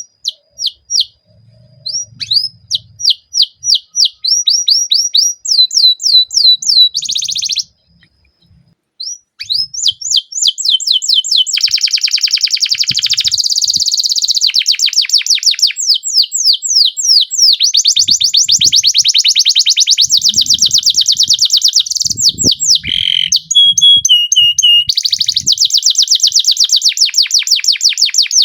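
Domestic canary singing in long rapid rolls: fast repeated falling notes strung into trills, with a brief pause about eight seconds in, then nearly unbroken rolling song.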